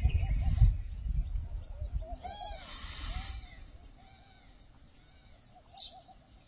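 Birds calling with short, soft, low hooting notes, repeated over and over. There is a low rumble at the start and a brief rustling hiss a little over two seconds in, and it all grows quieter in the second half.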